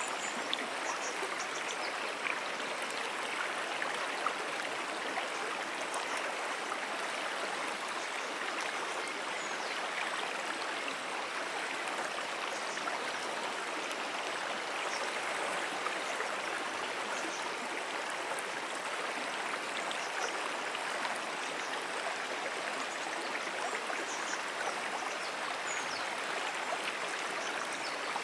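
Moonan Brook, a small perennial stream, flowing with a steady, continuous rush of water.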